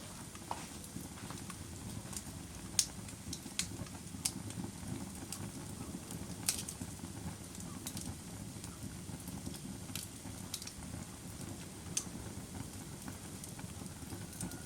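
A fire crackling: a steady low rustling hiss with sharp pops at irregular intervals, a few of them louder than the rest.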